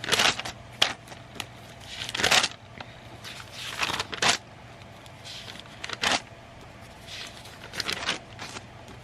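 Paper rustling as old drawings and notebook pages are handled and turned: a string of short papery swishes, one every second or two.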